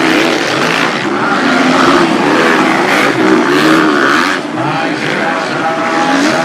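Motocross bike engines racing on a dirt track, their pitch rising and falling as the riders rev and shift.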